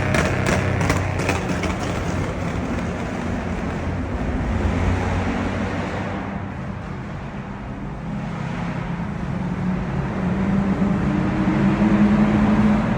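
Ford Mustang's exhaust while driving: a steady low engine note that dips a little in the middle, then climbs in pitch and gets louder toward the end as the engine revs up.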